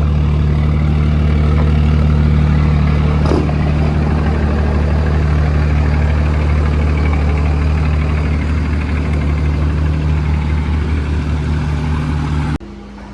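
Third-generation Cummins diesel pickup engine running loud at a steady speed, with one sharp click about three seconds in. The sound cuts off suddenly near the end.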